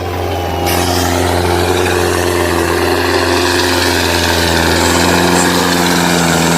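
Homemade RC John Deere model tractor running, a steady engine-like hum that holds one pitch, with a hiss joining it under a second in.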